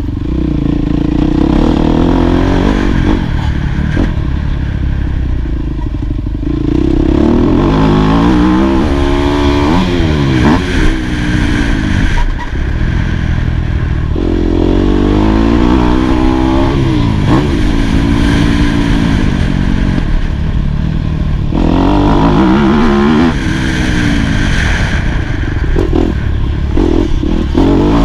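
2018 Yamaha YZ250F's four-stroke single-cylinder engine being ridden hard round a motocross track. It revs up and drops back again and again, pitch climbing and falling every few seconds, over a constant low rumble.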